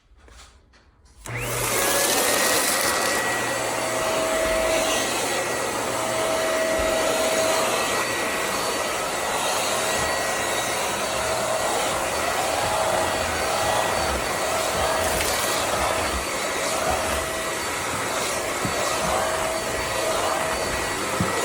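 Bissell CleanView Pet Slim corded stick vacuum switched on about a second in. Its motor whine rises briefly as it spins up, then runs steadily.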